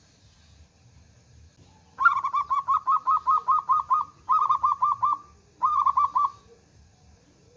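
Zebra dove (perkutut) song: after about two seconds of quiet, a rapid staccato run of cooing notes at about five a second, then two shorter runs.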